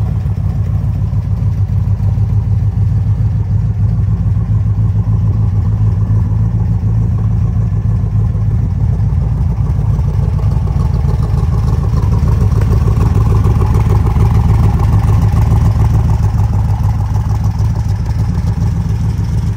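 1965 Corvette's 327 cubic-inch small-block V8 idling steadily.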